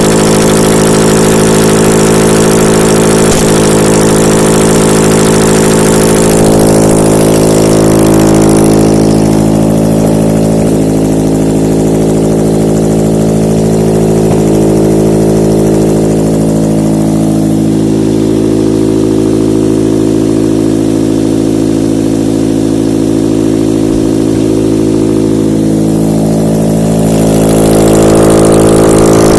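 Used Mazda LF-VDS 2.0-litre four-cylinder petrol engine idling steadily while being run on a test stand. The sound turns duller from about eight seconds in and brightens again near the end.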